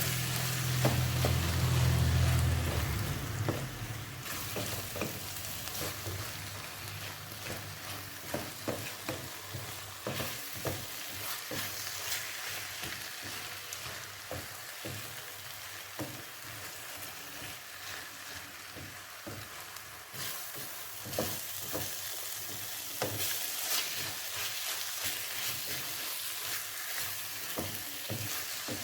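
Vegetable filling with spices sizzling in a frying pan while it is stirred, a spatula clicking and scraping against the pan again and again. A low hum sounds for the first few seconds.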